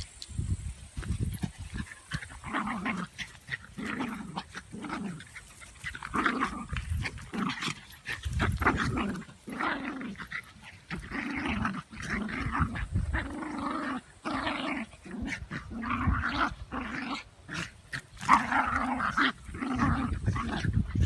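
Dog growling over and over in short pitched bursts, with clicks and knocks mixed in.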